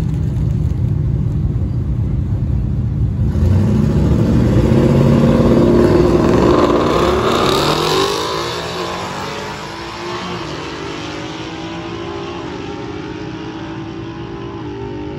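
Twin-turbocharged Ford Coyote 5.0 V8 Mustang at the start line, then launching on a quarter-mile pass. The engine gets louder about three seconds in and revs up hard through the gears, then fades as the car pulls away down the track.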